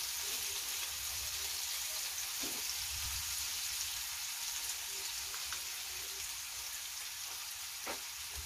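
Chopped onion, garlic, celery and carrots sautéing in oil in a pan: a steady sizzling hiss, with a couple of faint knocks while they are stirred.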